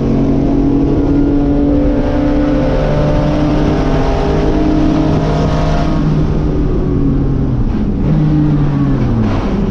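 Race car engine under load, its pitch climbing slowly, breaking at a gear change about six seconds in, then falling near the end as the car slows.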